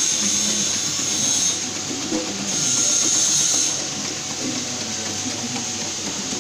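Palm sugar slicing machine running: a steady mechanical noise, with a high hiss that swells twice and then fades.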